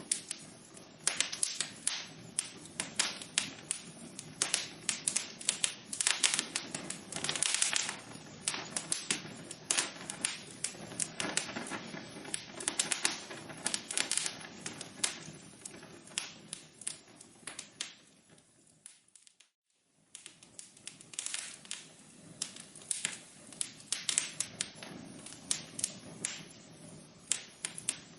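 Wood fire crackling in a fireplace: a dense, irregular run of sharp pops and snaps over a soft hiss. The crackling thins out and drops to silence for about a second around two-thirds of the way through, then starts again.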